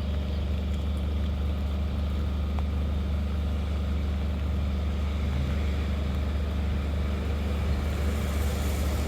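A steady low engine rumble that holds at an even level throughout.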